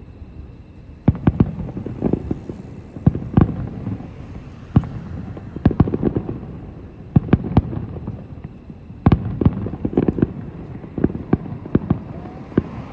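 Fireworks shells bursting in the distance: irregular clusters of sharp bangs, several in quick succession, with low rumbling between them.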